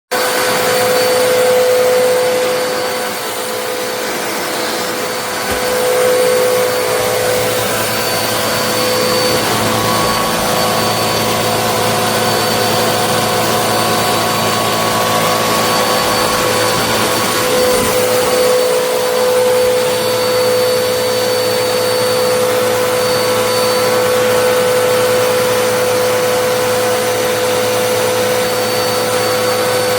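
Vacuum cleaner running steadily: a loud, constant motor whine and rushing air with a strong steady hum, cutting in suddenly at the start.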